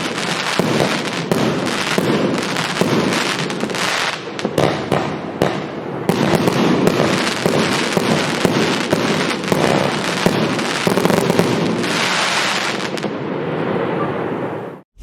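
Evolution Fireworks Snowstorm 2.0, an 80-shot compound fireworks cake, firing: a dense, continuous string of shots and crackling that cuts off suddenly just before the end.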